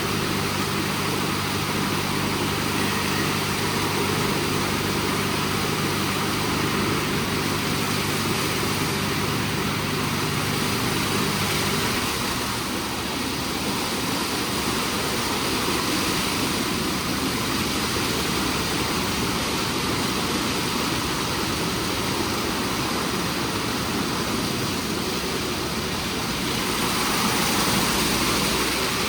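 WashTec SoftCare² Pro rollover car wash running: a steady rush of spraying water and machinery, with a low machine hum that stops about twelve seconds in. The rush swells briefly near the end.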